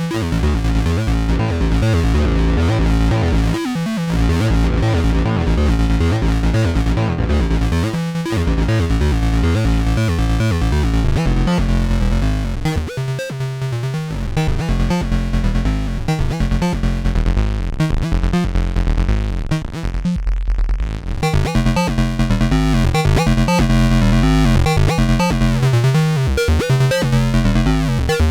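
Sequenced electronic music from a Behringer Neutron analog synthesizer and a Donner B1 analog bass synthesizer, playing a repeating low bass pattern. The highs drop away for a moment around twenty seconds in, then come back.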